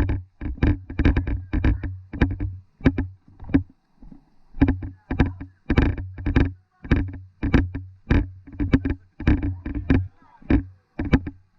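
Footsteps at a steady walking pace, about two a second, close to the microphone, with a low rumble of handling or wind under many of the steps.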